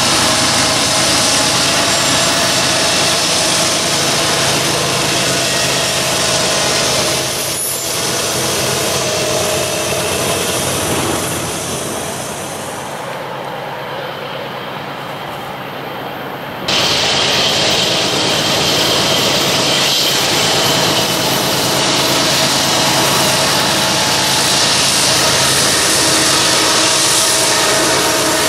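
Freight train of diesel locomotives and autorack cars rolling past close by, with steady engine noise and steel wheels running on the rails. A little before halfway the sound turns quieter and more distant for a few seconds, then jumps back suddenly to a loud, close pass.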